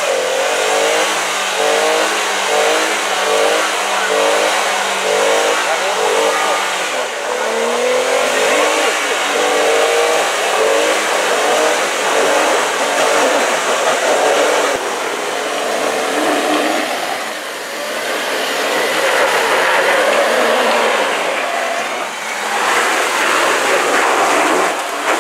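Vehicle engine revving over and over, its pitch rising and falling in short swells, then running on more steadily with more noise.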